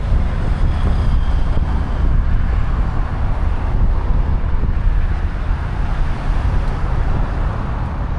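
Steady road-traffic noise, with a constant low rumble of wind on the microphone.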